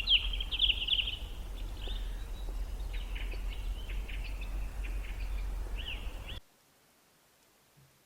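Small birds chirping and trilling over a steady low rumble of background noise, all cutting off abruptly about six seconds in.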